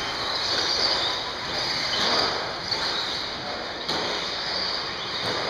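Radio-controlled racing trucks running around the track, a steady high whirring of motors and tyres, with a sharp knock about four seconds in.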